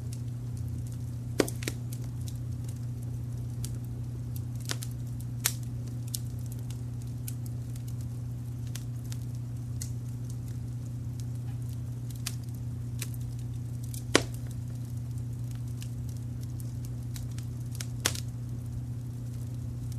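Wood fire crackling, with frequent small ticks and a handful of sharper pops, the loudest about fourteen seconds in, over a steady low rumble of added brown noise.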